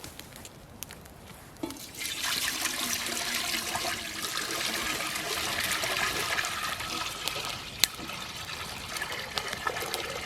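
Water pouring and splashing steadily into a vessel, starting about two seconds in and easing a little later on, with one sharp click partway through.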